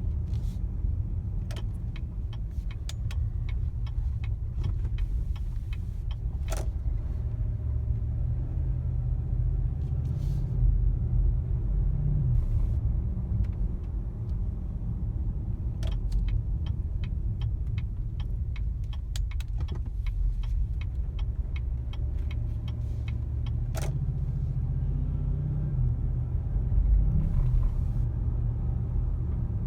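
2015 Cadillac Escalade on the move, heard from the cabin: a steady low engine and road rumble with scattered light clicks and knocks. Near the end a knocking comes through, along with a bump in loudness and a change in engine pitch. The owner suspects a transmission or engine fault, a feeling like the gears not shifting properly.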